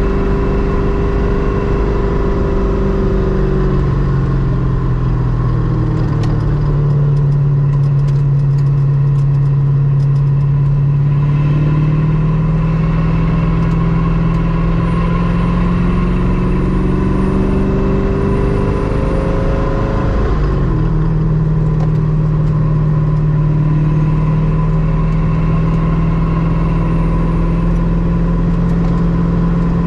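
Ultima RS's GM LS-series V8 running on the road under light load. Its note eases down about three seconds in, climbs slowly, then drops sharply about twenty seconds in and holds steady after.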